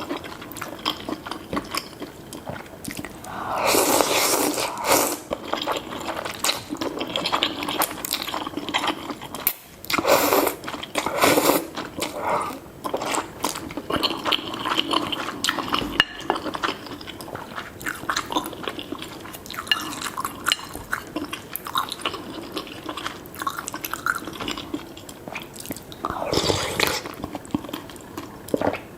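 Close-miked eating sounds of spicy seafood noodle soup with tofu: steady chewing and biting with small wet clicks, and a few louder bursts about 4, 11 and 26 seconds in.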